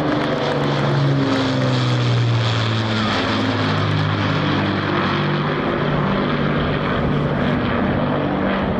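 WWII piston-engined propeller aircraft of the Battle of Britain Memorial Flight flying by: a steady engine drone whose pitch sinks slightly over the first few seconds.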